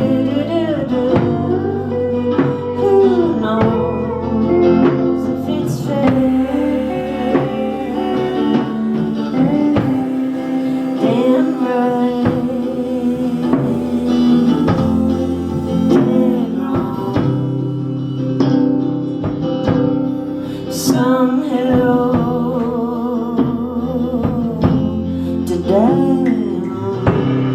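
A live band playing a song: a singer over guitar, bass and a drum kit.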